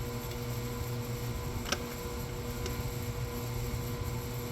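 A steady low mechanical hum, with one sharp click about a second and a half in and a fainter click a second later.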